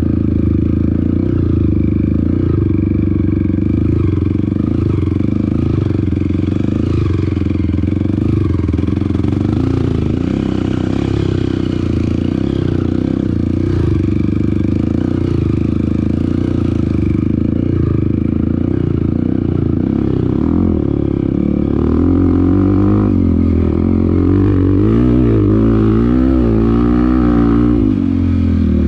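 Off-road motorcycle engine running under way on a trail, its revs rising and falling with the throttle, more widely in the last few seconds, over a steady clatter.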